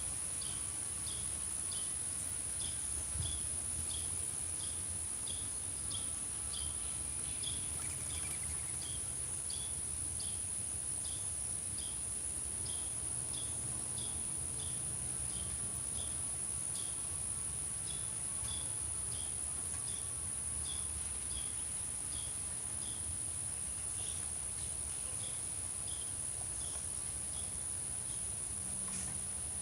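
Outdoor insect chorus, crickets or similar: a steady high-pitched trill with a regular chirp about twice a second, over a low background rumble.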